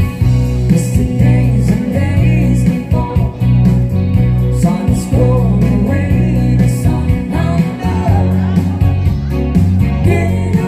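Live band music: guitar, bass and drums playing a rock song, with a singing voice over them.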